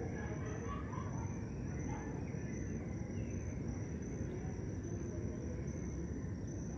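Crickets trilling steadily at a high pitch at dusk, over a low background rumble.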